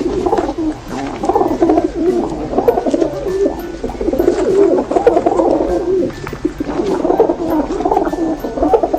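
Pigeons cooing, many low calls overlapping without a break.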